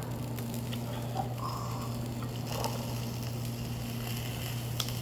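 Steady low hum with a few faint clicks and taps over it, and a sharp tick near the end.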